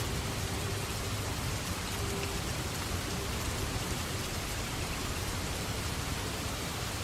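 Steady rain falling, an even hiss of drops with no break or distinct thunderclap.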